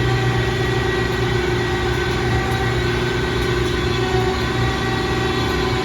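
Road vehicle's engine running at a steady speed with a constant low drone, heard from inside the vehicle while driving.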